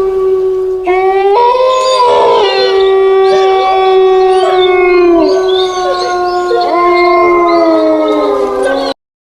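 Several animals howling together: long, overlapping held cries at steady pitches, some gliding up or down. The howls cut off abruptly near the end.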